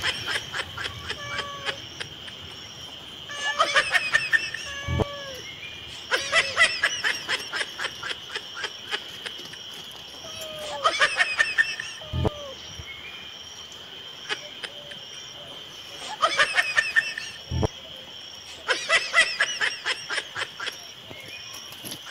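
Five bursts of rapid, high-pitched giggling laughter, each a second or so long, over a steady high insect drone.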